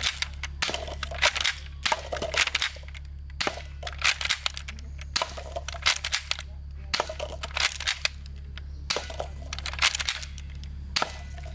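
Irregular clicking and clattering of hard plastic toy gun parts being handled, in quick clusters with short pauses, over a steady low hum.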